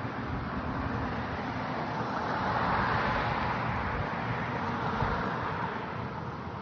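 A vehicle passing on a road, its tyre noise swelling to a peak about three seconds in and then fading, over wind rumble on the microphone.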